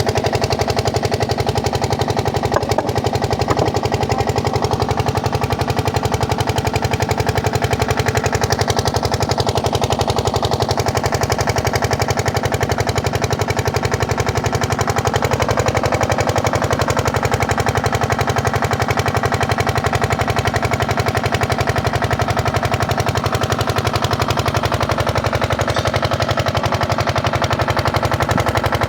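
Small engine running steadily near an HDPE pipe welding machine, with a fast, even pulsing beat.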